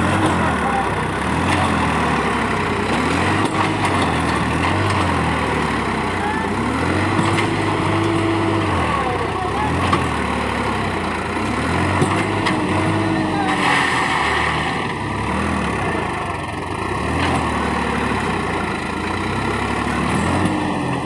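Sonalika tractor's diesel engine revving up and falling back again and again, a rev about every two seconds, over a steady low rumble.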